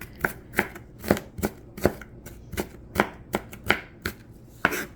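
Knife chopping food on a cutting board: a dozen or so sharp, uneven knocks, about two or three a second, stopping just before the end.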